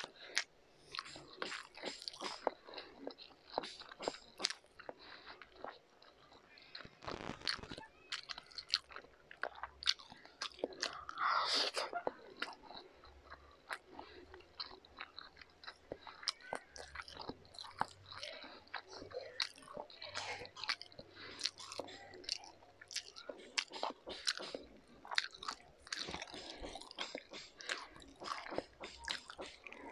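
Close-miked chewing of pancit canton noodles and fried egg, with a steady run of wet mouth clicks and smacks and one louder, longer mouth sound about eleven seconds in.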